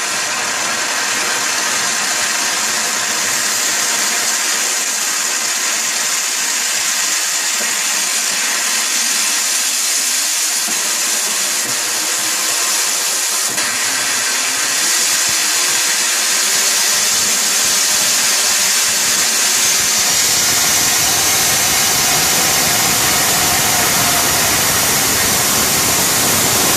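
Hybrid rocket engine burning grey PVC fuel with nitrous oxide: a loud, steady rushing hiss of the exhaust jet. It grows slightly louder and, about twenty seconds in, gains fuller, deeper tones.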